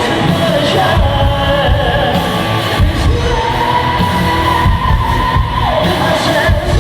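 Rock band playing live, with a singer holding one long high note through the middle before the melody drops, over drums and guitars.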